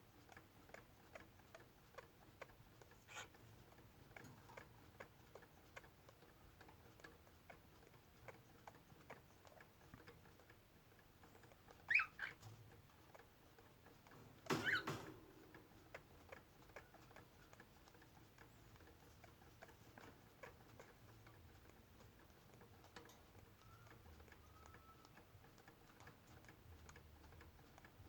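Faint, irregular clicking and tapping of a pet rosy-faced lovebird moving about its cage, with a short chirp about twelve seconds in and a louder, harsher sound lasting under a second a couple of seconds later.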